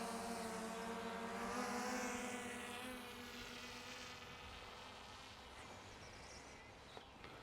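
Small quadcopter drone (DJI Mini 3) with its propellers whining in a steady pitched buzz. The pitch rises about two seconds in, then the sound fades steadily as the drone flies away.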